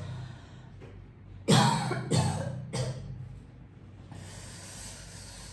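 A person coughing three times in quick succession, harsh and hacking, acting out a heavy cough.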